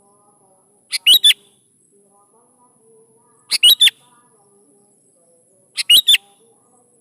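Sooty-headed bulbul (kutilang) calling: three short phrases of quick, bright notes, about two and a half seconds apart.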